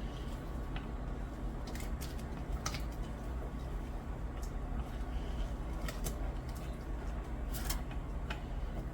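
A steady low hum with scattered light clicks and taps, several in a row, typical of kitchen work.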